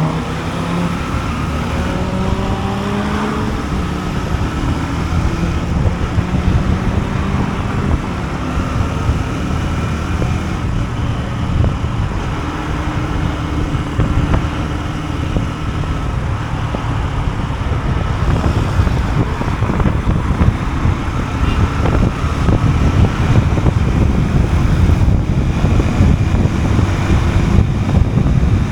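Honda CB125F's air-cooled single-cylinder engine running under way, rising in pitch as it accelerates in the first few seconds and then holding a steadier speed. Wind buffets the action camera's microphone, growing heavier in the second half.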